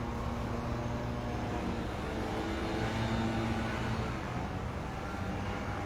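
Steady low engine rumble of background vehicles with a faint hum, with no sudden events.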